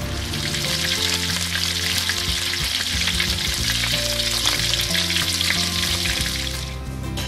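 Chicken wings sizzling in hot oil in a pan. The sizzle stops shortly before the end.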